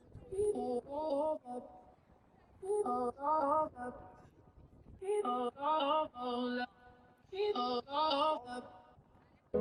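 A voice singing short melodic phrases with brief pauses between them, with little or no accompaniment.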